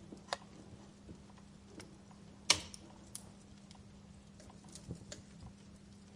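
Wood fire in a fireplace crackling: scattered small clicks and snaps, with one loud pop about two and a half seconds in.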